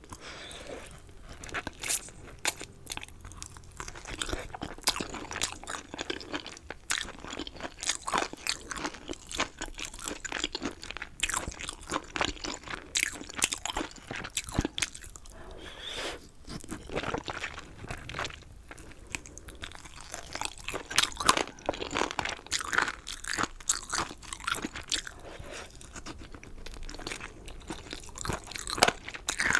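Close-miked crunching and chewing of chicken, with many irregular crisp crunches.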